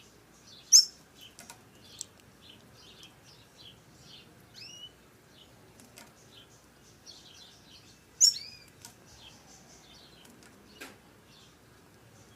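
Female double-collared seedeater (coleiro) giving short high chirps: two loud ones, about a second in and about eight seconds in, with fainter chirps between them. A few sharp clicks are scattered through.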